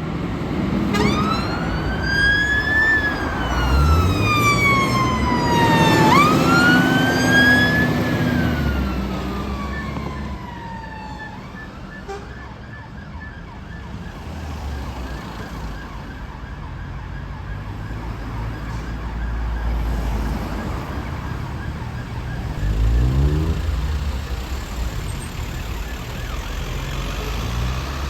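Fire engine siren wailing, sweeping slowly up and down over the rumble of the appliance's engine, then fading out about ten seconds in. Engine noise carries on, with an engine revving up near the end.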